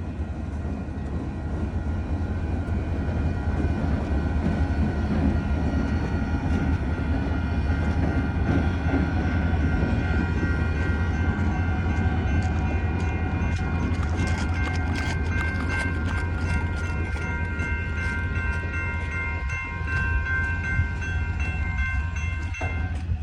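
Freight train rolling slowly past, a deep steady rumble of locomotives and cars. Over the second half come wheel clicks and several steady high-pitched tones.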